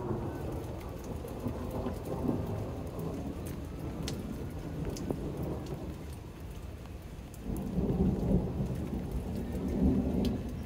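Steady rain falling, with a few sharp drops ticking. A louder low rumble swells in the last few seconds.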